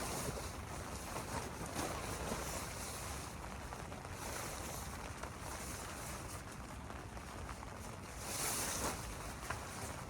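Steady rain falling, a continuous hiss with scattered light patters, and a louder rustling swell about eight seconds in.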